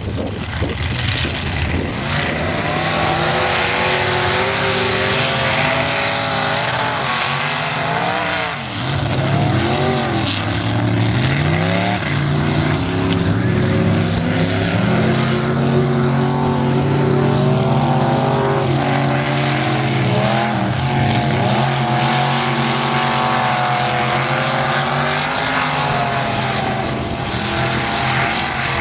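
Race car engines running hard on a dirt track, repeatedly revving up and dropping back, with a steadier run of several seconds in the middle.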